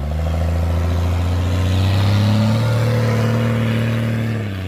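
Vehicle engine revved hard and held during a burnout, wheels spinning. Its pitch climbs at the start, holds high and steady, and falls away near the end as the throttle comes off.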